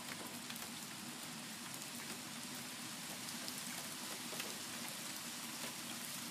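Thunderstorm rain falling steadily: an even hiss with scattered ticks of single drops hitting surfaces, and a faint steady hum underneath.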